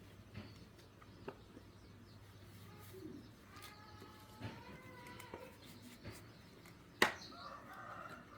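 Faint bird calls, with one sharp knock about seven seconds in as the loudest sound.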